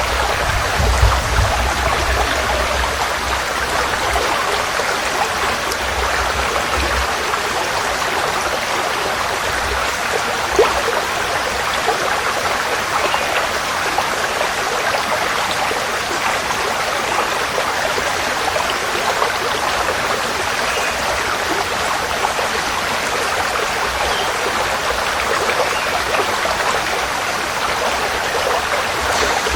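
Forest stream flowing: a steady rush of water. A low rumble sits underneath for roughly the first seven seconds.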